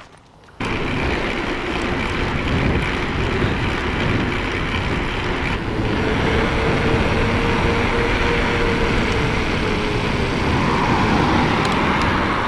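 Steady wind and road noise buffeting the camera microphone of a moving e-mountain bike, starting abruptly about half a second in. A faint steady whine runs through the middle.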